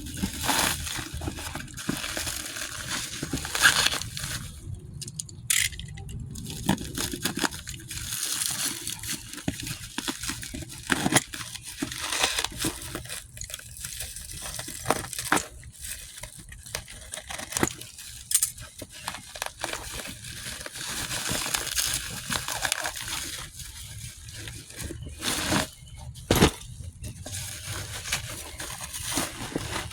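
A cardboard shipping box being opened by hand: tearing, crinkling and rustling of the packaging, with scattered knocks and clicks.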